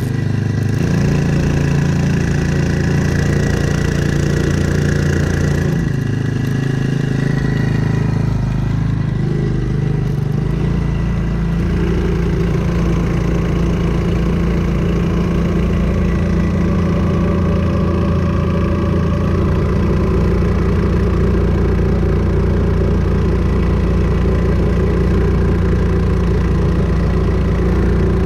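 Brand-new Hangkai 4 hp four-stroke outboard motor running during its break-in. Its note shifts about six seconds in and again around ten seconds in, then it runs steady.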